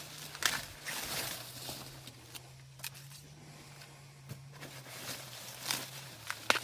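Irregular rustling, crinkling and tearing of dry corn leaves and husks being handled, with sharper snaps about half a second in and near the end.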